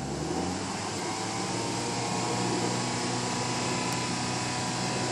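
A motor running steadily, a constant hum with a broad hiss over it that rises slightly at the start.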